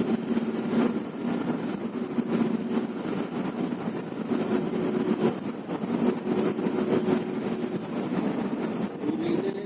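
Intercity bus on the move, engine and road noise heard from inside the cabin: a steady drone with a faint hum that comes and goes.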